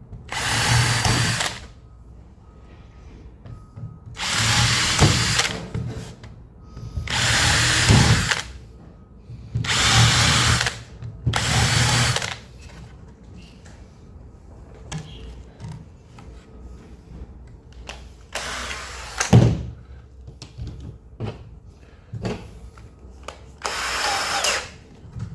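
A power drill run in seven short bursts of about a second each, with pauses between them and a longer pause in the middle.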